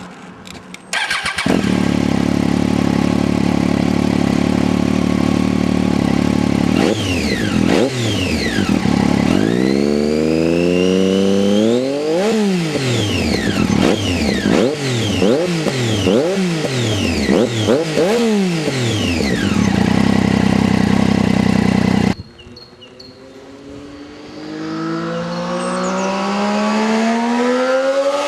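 Triumph Daytona 675's inline three-cylinder engine through a Bodis Q1 exhaust: it starts about a second in, idles, then is revved hard several times, each rev climbing and falling back to idle. After a sudden break near the end, the bike accelerates toward the microphone, its note climbing to a peak as it passes.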